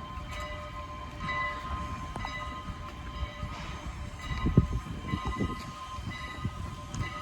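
A train running by: a low rumble with irregular wheel clanks, the loudest about four and a half seconds in, under a faint high ringing tone that comes and goes.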